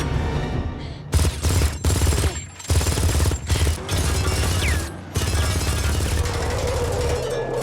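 Long bursts of rapid automatic gunfire, broken by brief pauses, in a loud film action mix.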